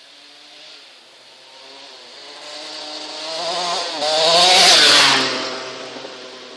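Motocross bike passing close by, its engine revving up and down as it approaches. It is loudest about four to five seconds in, then fades away.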